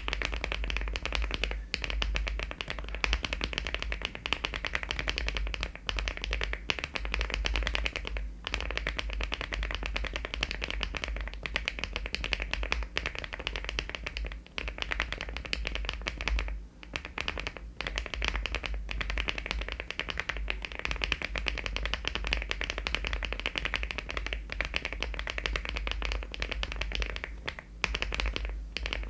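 Fast, continuous typing on a LEOBOG Hi75 aluminium-cased mechanical keyboard fitted with HMX switches and Cherry-profile keycaps: a dense stream of keystroke clacks, broken by a few short pauses.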